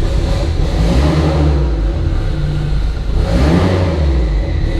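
Built Mitsubishi Lancer Evolution VIII turbocharged 2.0-litre four-cylinder engine revving loudly, its revs rising and falling a couple of times.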